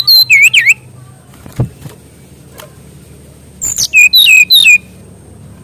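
SRDC (sikatan rimba dada coklat, a jungle flycatcher) singing two quick runs of clear, sweeping whistled notes, one at the start and another about three and a half seconds in, with a few faint clicks between them.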